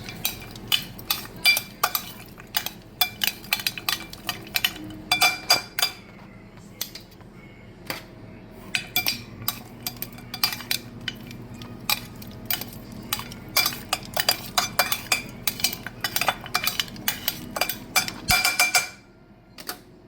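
A metal utensil clinking against a metal pot in quick, irregular strikes, each leaving a short metallic ring. The clatter stops abruptly about a second before the end.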